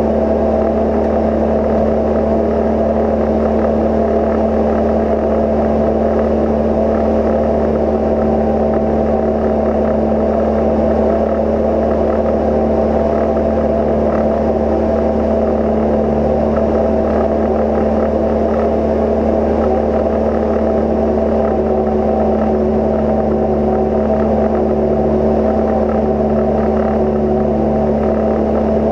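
Cozy Mk IV light aircraft heard from inside the cockpit: its engine and pusher propeller drone steadily at constant power.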